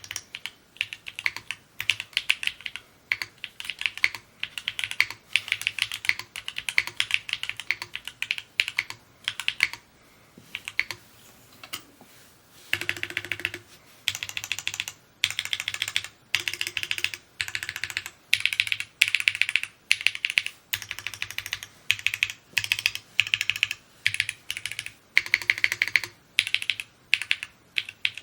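Typing on a Mode Encore 2 mechanical keyboard: fast runs of key clacks in bursts with short breaks, and one pause of about two seconds near the middle.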